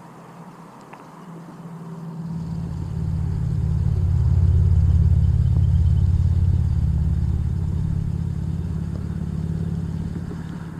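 A motor vehicle going past: a low engine rumble swells in about two seconds in, is loudest around the middle, and slowly fades.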